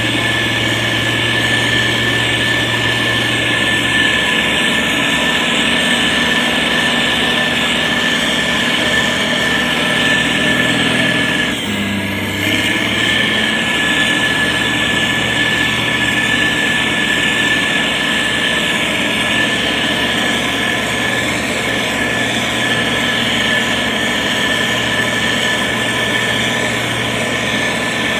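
Diesel engine of a SANY STG190C-8S motor grader running steadily, with a steady high whine over the engine note. About twelve seconds in, the sound breaks briefly and then carries on.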